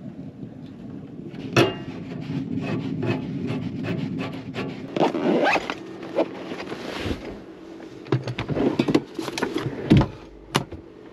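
Gear being handled by hand: rubbing and scraping with a run of sharp clicks and knocks, two of them louder, one early and one near the end.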